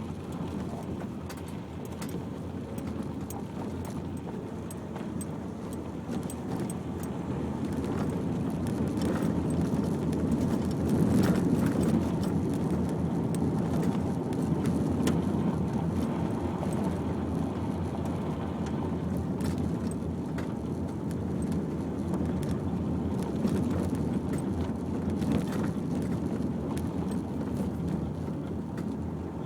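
Car driving slowly over a rough unsurfaced lane: a steady low rumble of engine and tyres that grows louder about eight seconds in, with scattered knocks and rattles.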